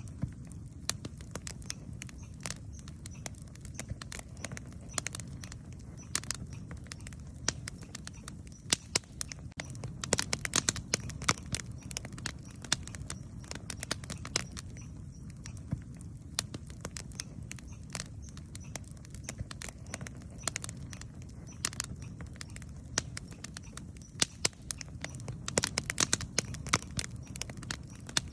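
Wood campfire crackling and popping: irregular sharp snaps, busiest around ten seconds in and again near the end, over a steady low rumble of the burning fire.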